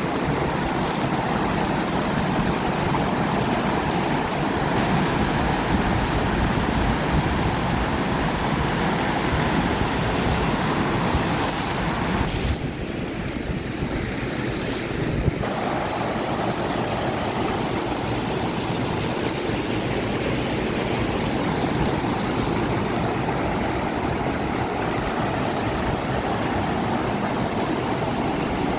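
Water pouring over a broad fall and rushing on steadily, a continuous even roar.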